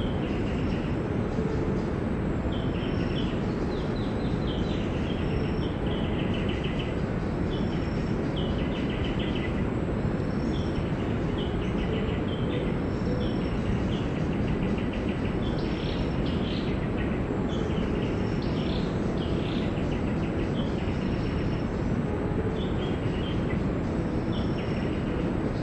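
Birds calling in short, quick series of repeated chirps, over a steady low rumbling background noise.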